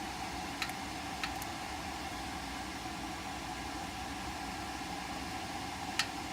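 Steady background hum and hiss, with three sharp clicks of small hand tools on the furnace wiring: two close together about half a second in, and one more near the end.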